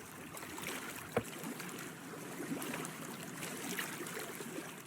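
Water lapping and splashing lightly against the hull of a small fishing boat, with one sharp knock about a second in.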